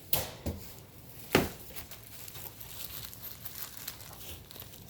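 Packaging crinkling and rustling as parts are pulled out of the bird cage's shipping box, with three sharp knocks in the first second and a half, the last one the loudest.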